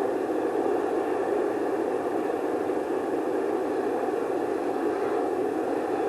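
Bonfire burning with a steady rushing noise, without distinct crackles or pops.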